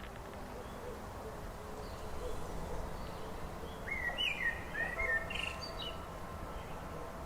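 Birds chirping: a few short, sliding calls about halfway through, over a steady low background rumble.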